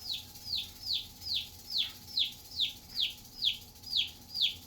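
Feeder chick peeping: a steady run of loud, short peeps, each falling in pitch, about two to three a second.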